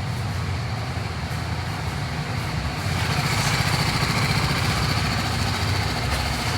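Oil-cooled motorcycle engine idling with a steady low, pulsing rumble. It grows louder about three seconds in.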